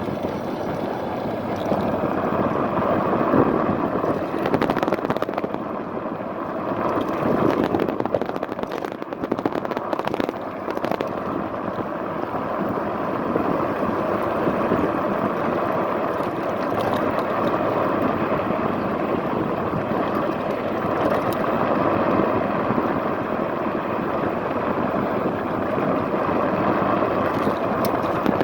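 Steady wind buffeting on the microphone and road noise from a moving electric fat-tyre scooter, with a few sharp knocks from bumps about a third of the way through.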